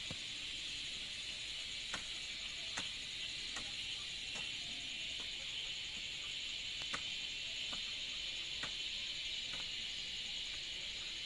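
Steady high insect chorus of cicadas or crickets. Over it come light knocks in an even rhythm, about one a second, typical of a hand tool at work in the garden.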